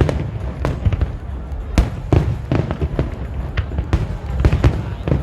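Fireworks going off: an irregular run of sharp bangs, about three a second, over a low rumble.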